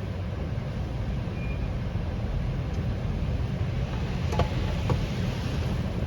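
Steady low rumble inside a car moving through an automatic tunnel car wash. Two sharp knocks come about four and a half and five seconds in, and a hiss swells near the end.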